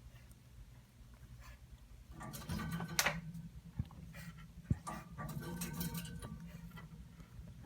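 Cockatiel making a run of breathy, noisy calls with a few sharp clicks, starting about two seconds in and fading out near the end.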